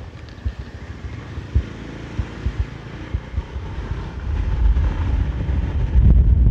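Wind buffeting the microphone: a low, uneven rumble with irregular thumps that grows louder in the last couple of seconds.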